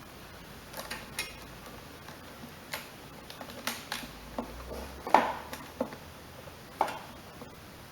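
Scattered light clicks and knocks of small metal parts and tools being handled while fitting a new carburetor and its O-ring and gasket to a lawnmower engine, the loudest knock about five seconds in.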